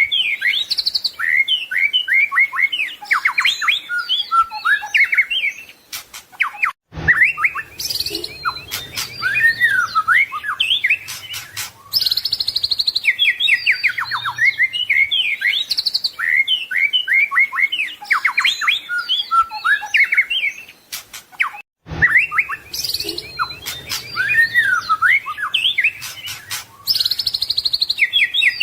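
White-rumped shama singing a fast, varied song of whistles, rapid trills and sliding notes, full of mimicked phrases. It breaks off briefly twice, about seven and twenty-two seconds in, and the same passage seems to come round again about every fifteen seconds.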